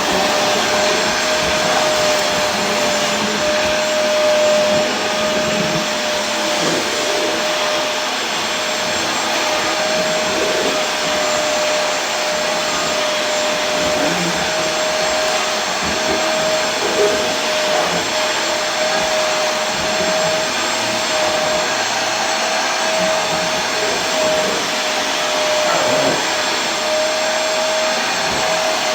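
Vacuum cleaner motor running steadily: a constant rushing noise with a steady whine held at one pitch throughout.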